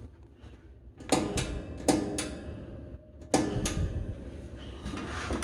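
Sharp knocks and clanks from a metal box fan being handled and moved, about five strikes in a couple of seconds, each ringing briefly.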